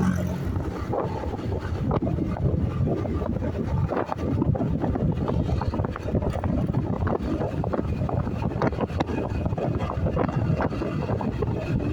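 Wind buffeting the microphone on a moving motorcycle, a steady rough rush with constant fluttering gusts over the low noise of the ride.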